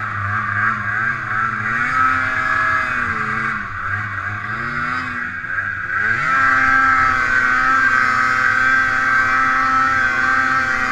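Ski-Doo two-stroke snowmobile engine running under way, its pitch rising and falling with the throttle, dropping back about four seconds in, then climbing about six seconds in and holding at a steady high speed, with a high whine over the engine note.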